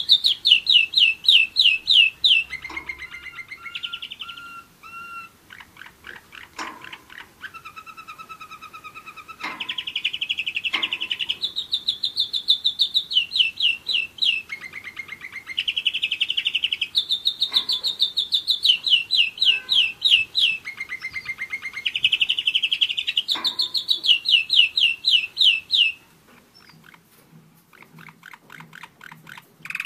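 German roller-split canary singing a long song made of rapid trills, each run of repeated notes at its own pitch, switching from high to lower runs and back. A softer, lower passage comes a few seconds in, and the song drops to a quiet twitter near the end.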